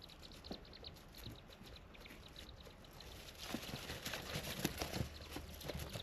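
Degu playing with a wooden ball: a few faint, quick high chirps early on, then from about three and a half seconds in a louder patch of rapid wooden knocks and scratching.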